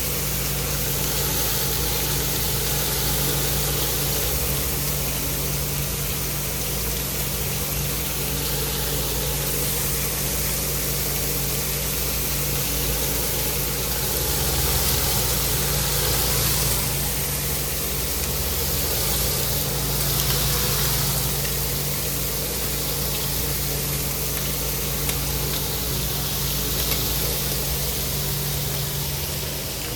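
Steady hum of kitchen machinery with a constant hiss over it that swells a few times.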